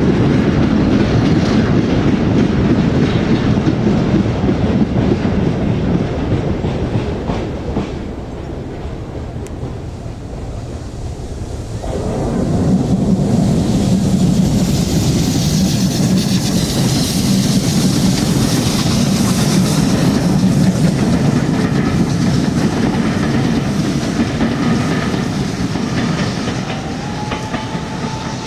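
Steam-hauled train running past on the rails with a heavy rumble. It eases off for a few seconds about a third of the way in, then builds again with a hissing noise on top.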